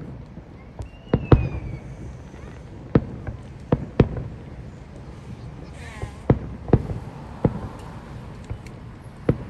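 Fireworks going off: a string of sharp bangs at uneven intervals, about nine in all.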